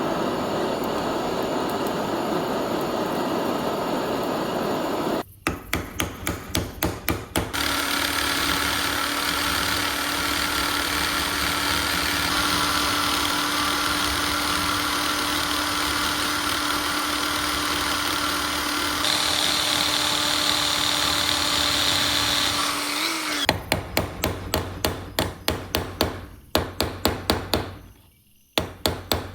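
A power tool runs steadily with a held hum, broken by two runs of rapid, regular hammer blows, about five a second: one early and a longer one near the end.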